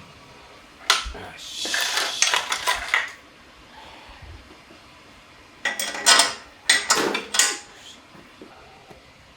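Metal parts and tools clinking and clattering as they are handled on a workbench, in two spells of sharp knocks: about a second in to three seconds, and again from near six to seven and a half seconds.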